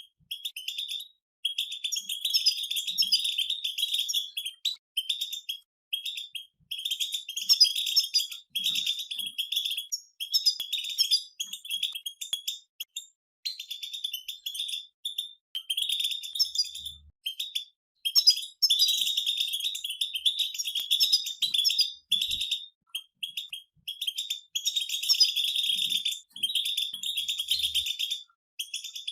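Several European goldfinches singing together in a fast, chattering twitter. The song comes in phrases of a few seconds, broken by brief pauses.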